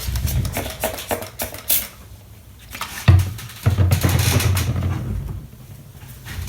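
Rubbing and scraping on a small plastic Commodore 64 key as it is cleaned because it is sticky and dirty, with a sharp knock about three seconds in.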